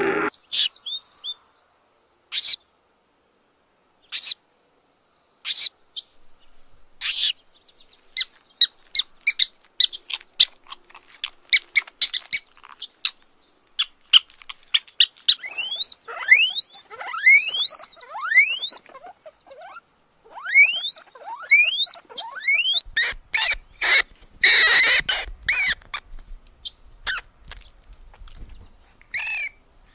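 Small pet rodents, mice and a hamster, squeaking: short, very high-pitched squeaks, sparse at first and then in quick runs of rising chirps with brief pauses.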